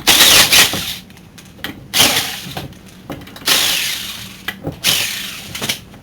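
Impact wrench spinning lug nuts off a car wheel in four short bursts about one and a half seconds apart, each starting suddenly and tailing off; the nuts were already loosened.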